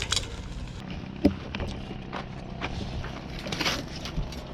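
Low steady rumble with scattered light clicks and knocks, one sharper knock about a second in.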